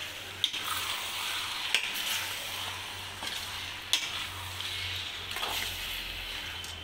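Raw chicken pieces and small onions sizzling steadily in hot sesame oil in a metal kadai as a metal spatula stirs them, the spatula knocking sharply against the pan three times.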